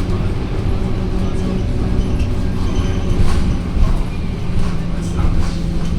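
Scania K230UB city bus's five-cylinder diesel running with a steady low drone, with scattered rattles and knocks from the bus body.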